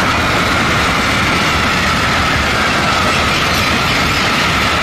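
Freight train wagons rolling past close by at speed: a loud, steady rush of steel wheels on rail with a faint steady ringing tone above it.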